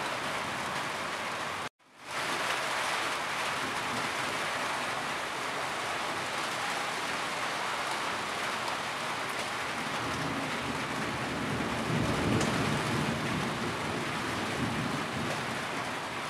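Heavy rain falling steadily, with water pouring off a roof edge. The sound cuts out completely for a moment about two seconds in, and a low rumble swells up about ten seconds in and fades a few seconds later.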